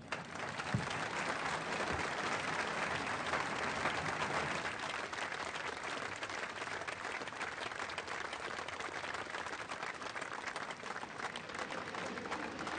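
An audience applauding, a steady spread of clapping that starts at once and eases slightly toward the end.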